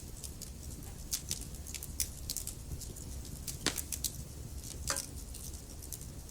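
Wood fire crackling in a fireplace: irregular sharp pops over a low steady rumble, with two louder pops a little past halfway.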